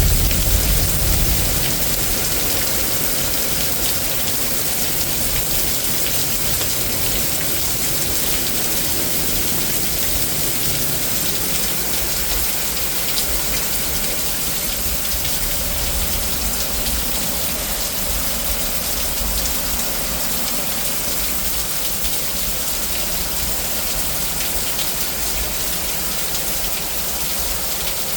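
Heavy rain from a severe thunderstorm falling steadily, an even hiss of rain on surfaces. A low rumble dies away in the first second or two.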